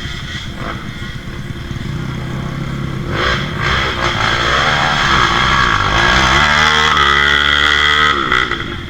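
Off-road trail motorcycle engine revving hard, its pitch dipping and rising several times, then held high and steady for a couple of seconds before dropping near the end.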